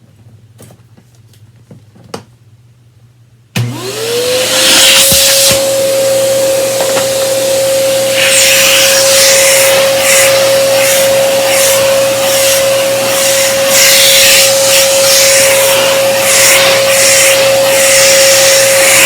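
A 12-amp Kenmore Progressive upright vacuum cleaner switches on about three and a half seconds in, after a few small clicks. Its motor spins up with a quick rising whine and settles into a steady high whine, with loud rushing air that swells and fades as it runs.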